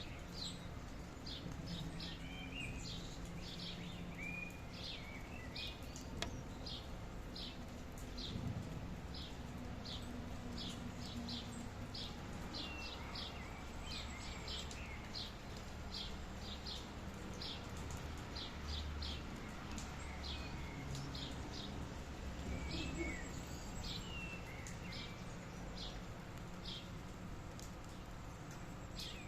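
Birds calling: a steady run of short, high repeated notes, about two a second, with a few lower, warbling chirps among them, over a steady low background noise.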